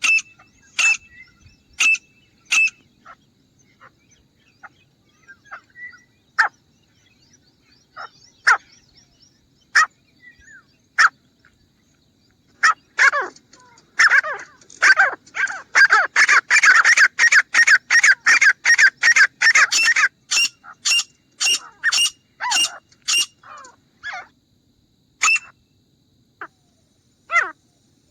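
Grey francolin calling: short sharp notes repeated about once a second, crowding into a dense, rapid run of calls for several seconds in the middle before spacing out again.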